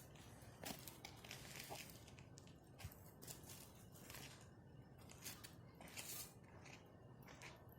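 Faint campfire crackling: irregular small snaps and pops of burning wood, several of them scattered through the few seconds over a quiet background.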